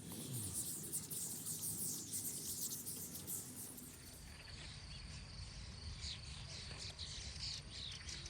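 A flock of birds calling at once: a dense chatter of many short, high chirps. About four seconds in, the sound changes and downward-sliding chirps go on over a steady high tone.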